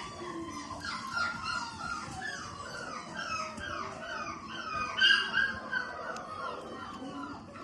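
Several Labrador puppies whining and yipping at once, a chorus of overlapping high-pitched cries. The loudest cry comes about five seconds in.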